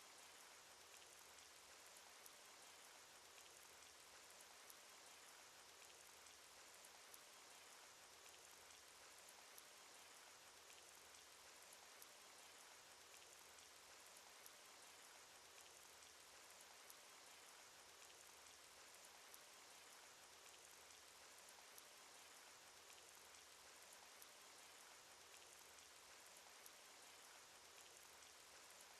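Faint, steady rain sound effect: an even hiss of rainfall with small ticks of single drops scattered through it.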